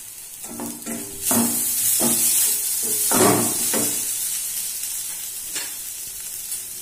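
A vegetable filling of grated potato, carrot and soybean sizzling in oil in a steel kadai. A wooden spatula scrapes and stirs it a few times in the first four seconds. The sizzle swells about a second in and eases off toward the end.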